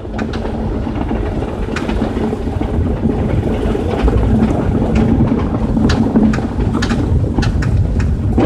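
Front-axle suspension on KSport Street coilovers clacking: irregular sharp knocks over a steady low road rumble, which the owner suspects may come from the uniball top mounts.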